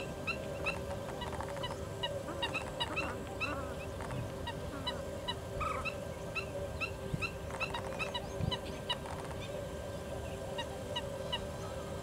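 Birds calling: many short calls repeated a few times a second, over a steady low hum.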